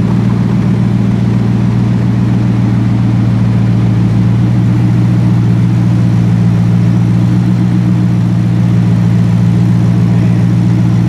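Turbocharged Ford Coyote 5.0 V8 in a Mustang idling steadily on a chassis dyno, a constant low drone that does not rise or fall.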